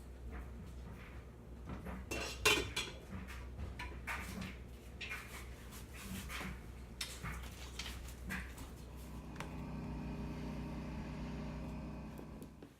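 A series of light clinks and knocks, like small hard objects tapping together, the loudest about two and a half seconds in. Near the end a steady hum takes over for about three seconds and cuts off suddenly.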